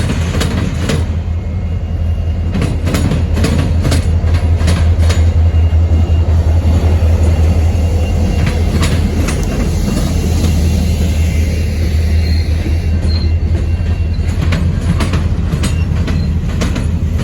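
Diesel freight locomotives running with a steady low hum as slow-moving freight trains roll past, their wheels clicking irregularly over rail joints and the diamond crossing.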